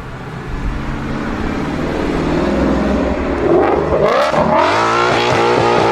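Car engine revving: a steady running sound that climbs in pitch about three and a half seconds in, then holds at a higher, louder pitch.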